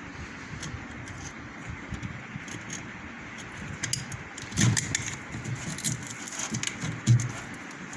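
Work on the old rubber drain hose of a semi-automatic washing machine as it is cut with a cutter and pulled free: scattered small clicks and scrapes, with two louder knocks, one about halfway through and one near the end.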